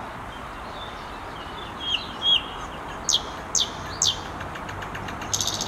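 A songbird calling: a couple of short chirps, then three quick down-slurred whistles about half a second apart.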